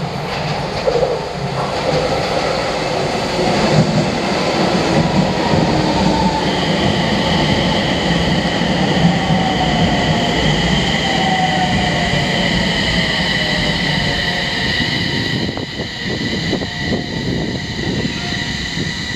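Electric train running through the station for many seconds, its motor whine falling in pitch as it slows. Two steady high tones come in about a third of the way through and hold to the end.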